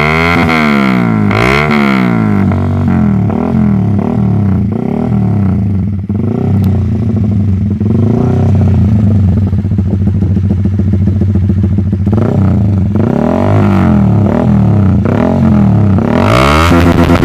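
Small-displacement motorcycle engine revved through an aftermarket racing exhaust: repeated throttle blips rising and falling, with a stretch of steadier higher revs in the middle and more blips near the end.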